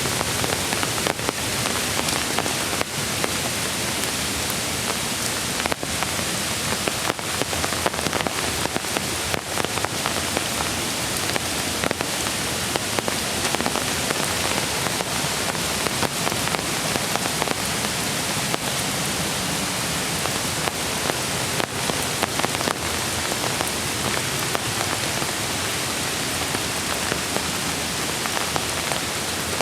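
Steady rain falling, a continuous hiss with scattered individual drops heard as faint clicks.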